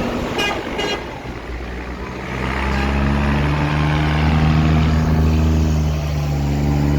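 Two short horn toots, then a tractor's diesel engine comes in loud and runs steadily as it passes close by, from about two seconds in.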